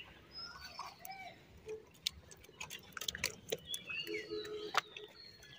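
Birds chirping and calling faintly in short calls, mixed with scattered sharp ticks and clicks.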